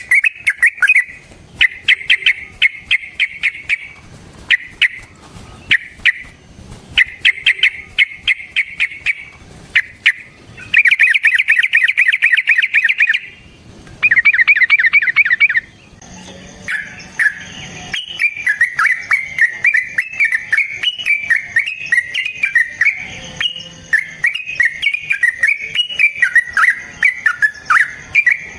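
Yellow-vented bulbul (trucukan) singing. It gives fast rattling trills in bursts of a second or two, then, about halfway through, a longer, more varied chattering song over a faint hiss.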